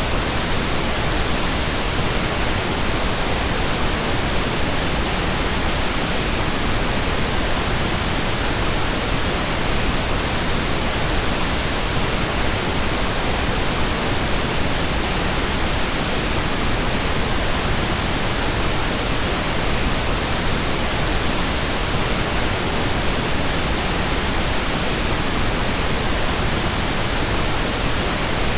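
Steady pink noise: an even, unchanging hiss across all frequencies, with no breaks.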